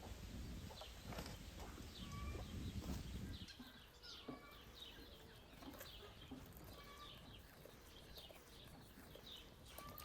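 Birds chirping in short, repeated calls, with chickens possibly among them. A low rumble sits under the chirps for the first three seconds or so.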